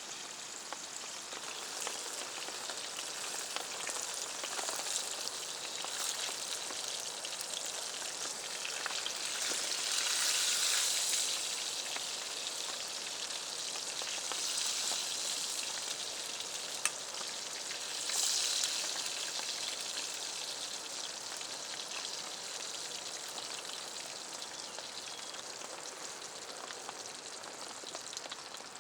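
Steady rain pattering, made of many fine drops, swelling heavier for a few seconds about a third of the way in and again past the middle.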